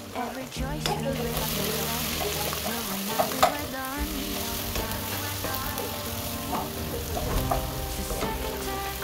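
Meat and spices sizzling as they fry in a nonstick pot, with a wooden spoon stirring and scraping through them. There is one sharp knock about three and a half seconds in.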